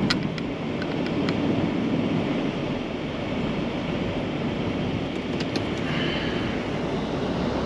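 Blizzard wind buffeting the microphone, a steady rushing noise, with a few faint clicks.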